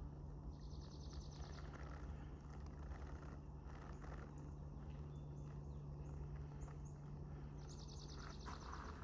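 Woodland songbirds: a small bird sings a rapid, even trill of high notes lasting about a second, twice, once just after the start and again near the end, with scattered short chirps between, over a steady low hum. Footsteps on the trail start near the end.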